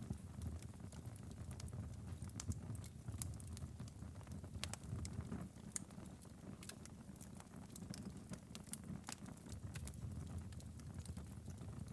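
Wood fire crackling in a fireplace: irregular sharp pops and snaps, some louder than others, over a steady low rumble of the burning logs.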